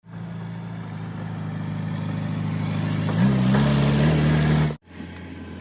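Engine of a heavy machine such as a JCB running steadily and growing louder, then revving up about three seconds in. The sound breaks off sharply near the end and a quieter engine sound follows.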